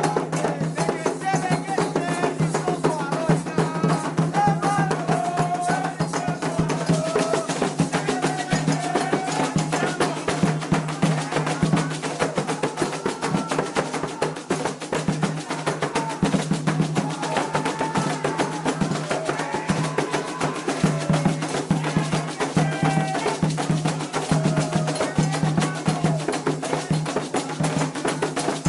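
Candomblé ritual drumming: hand drums and a struck percussion part beating a steady, dense rhythm, with voices singing a chant over it.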